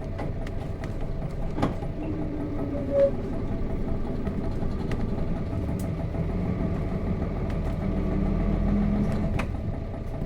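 Nissan Diesel FE6 six-cylinder diesel engine of a KC-RM211GSN bus running steadily at low revs, heard from inside the cabin, with scattered light clicks and rattles.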